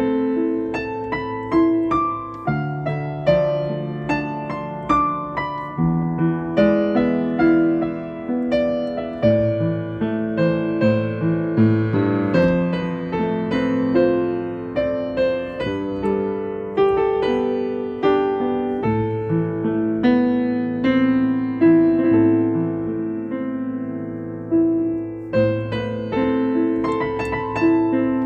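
Solo piano music playing a slow, gentle melody over held chords.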